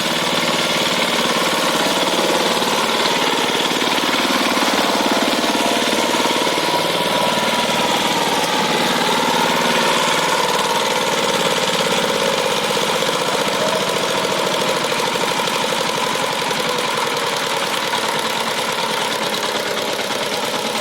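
A power tiller's single-cylinder diesel engine running steadily with a rapid knocking beat.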